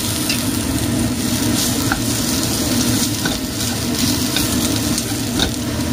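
Smoked fish and shallots, garlic and lemongrass sizzling as they are stir-fried in a saucepan, stirred with a wooden spatula. A steady frying hiss, with a few light taps of the spatula against the pan.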